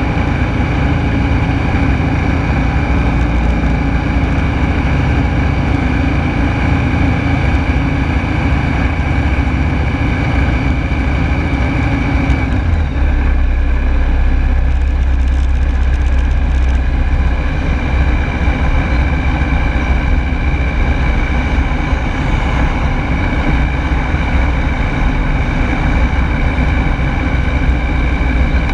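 Rotax 912S four-cylinder boxer engine and propeller of a Rans Coyote S6 ultralight droning steadily in cruise, heard from inside the cockpit. The engine's tone shifts about twelve seconds in, with no change in loudness.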